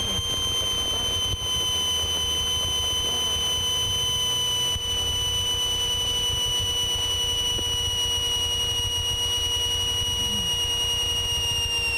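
Cessna 182 stall warning horn sounding as a steady high-pitched tone, its pitch sagging slightly near the end, a sign the airplane is flying slow near stall speed. The low steady hum of the engine runs underneath in the cockpit.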